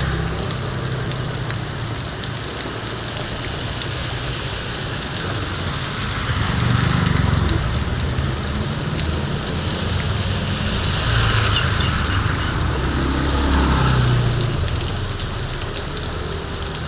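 Heavy rain pouring steadily. The low rumble of passing vehicles rises and fades about three times.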